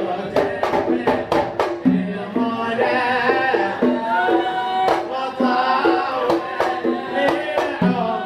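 Male voice singing a devotional sama' chant to the beat of hand drums, with sharp drum strokes falling several times a second.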